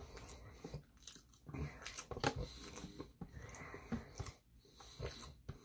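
Close-miked chewing of sushi: soft, irregular wet mouth clicks and crunches while eating.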